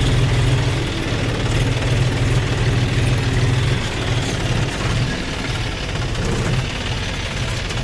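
Heavy diesel machinery engine running steadily at low revs.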